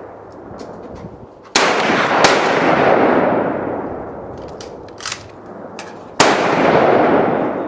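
Gunshots at an outdoor shooting range. Two loud shots come well under a second apart about a second and a half in, and a third comes about six seconds in, each followed by a long rolling echo that fades away. Fainter, more distant shots sound in between.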